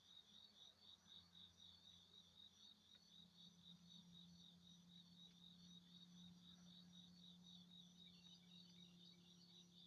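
Faint insect chirping, most likely a cricket: a high, evenly repeated chirp about three times a second, over a low steady hum.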